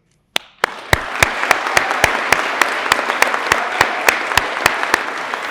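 Audience applauding, starting about half a second in. One close pair of hands claps loudly and evenly, about three or four claps a second, over the general clapping.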